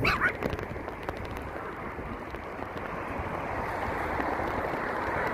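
Xiaomi Pro 2 electric scooter in motion: a steady rushing of tyres and air, with a couple of knocks at the very start. No squeak or creak is heard now that the joints have been oiled.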